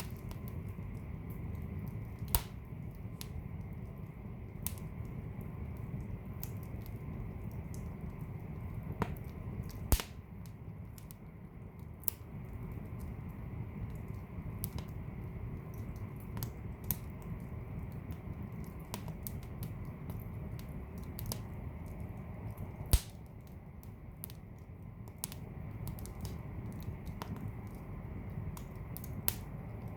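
Wood fire burning in a fireplace: a steady low rumble of flames with scattered sharp crackles and three louder pops, about two, ten and twenty-three seconds in.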